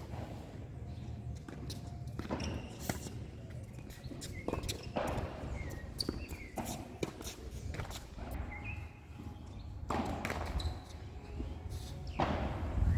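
Tennis play: a ball struck by rackets and bouncing on the court, sharp knocks at irregular intervals, with players' footsteps between them.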